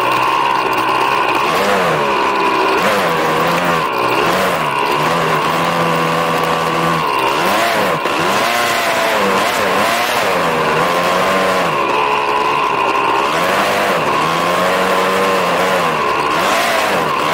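Snowbike engine running hard, its pitch rising and falling again and again as the throttle is opened and eased off, with a steady high whine above it.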